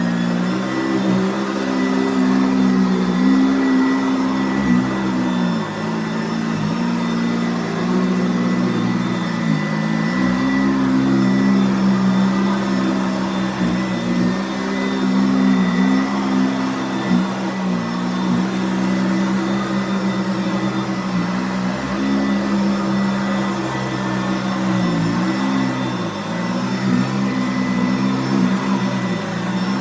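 Sanitaire SC688 commercial upright vacuum cleaner running steadily while vacuuming. Its motor hum dips briefly in pitch every few seconds.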